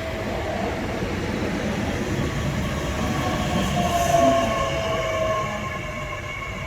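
Train running past on the line, a steady rumble with a whine that slowly falls in pitch, loudest about four seconds in.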